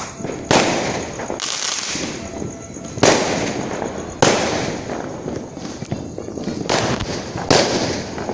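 Fireworks going off: a string of sharp bangs, each trailing off over a second or so, over continuous crackling.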